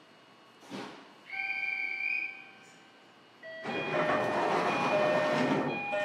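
Sounds from a JR Kyushu 305 series electric train standing at the station just before departure. There is a brief swish, then a steady electronic tone lasting about a second, then from about three and a half seconds in a loud rushing noise with steady whistling tones in it.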